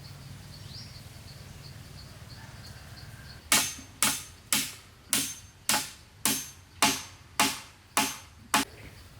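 A hand tool striking wood in a steady series of ten sharp blows, about two a second, each with a short ringing decay.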